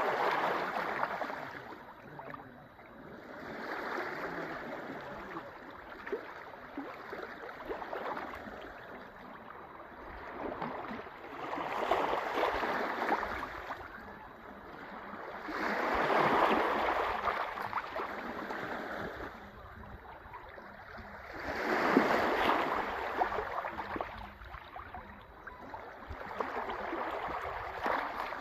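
Sea waves washing onto the shore: a hissing wash that swells and fades every four to six seconds, some waves louder than others.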